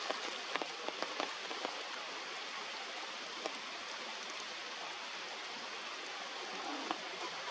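Heavy rain falling steadily, with single drops striking close by as sharp ticks, more of them in the first two seconds.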